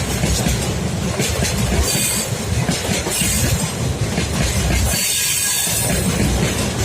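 Freight train rolling past, the wagons' steel wheels rumbling and clattering on the rails, with a faint high wheel squeal coming in at times.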